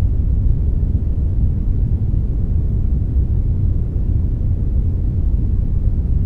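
Steady synthetic brown noise, a deep even rumble-hiss with most of its energy in the lows, without change or pattern.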